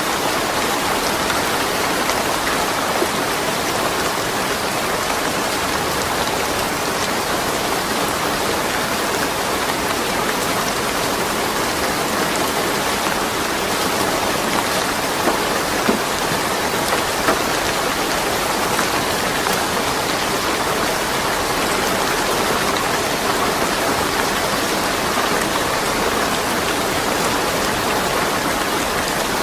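Steady rain falling, an even hiss of rain with scattered drops hitting surfaces.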